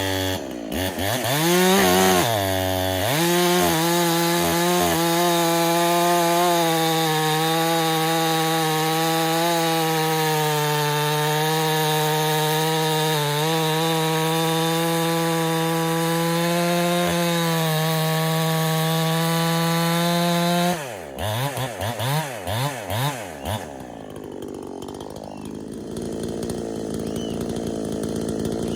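Big-bore, gasket-deleted Husqvarna-clone two-stroke chainsaw being broken in: it is revved twice, then held at high speed for about eighteen seconds, as in a long cut through wood. About twenty seconds in it drops to idle with a few throttle blips, then goes much quieter.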